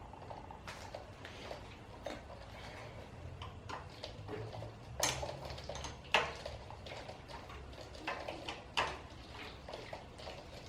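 Irregular metallic clinks and clicks of a hand spanner working a bolt loose, with a few sharper knocks about five, six and nine seconds in.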